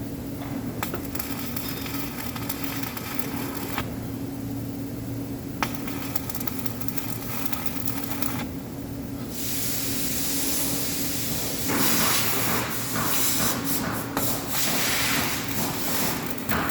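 Electric arc welding: spells of hissing, crackling arc that strike and break off several times, turning denser and more crackly in the second half, over a steady hum.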